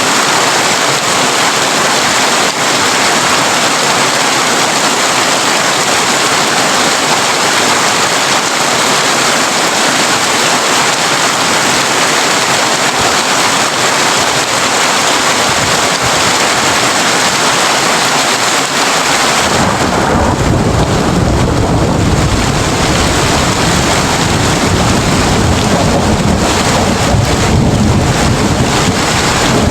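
Heavy rain drumming steadily on a tin roof. About two-thirds of the way through, a long, low thunder rumble sets in and keeps going under the rain.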